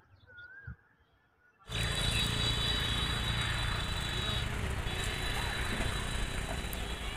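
About a second and a half of near silence, then the steady rumble of a passenger train's coaches rolling slowly out along the track.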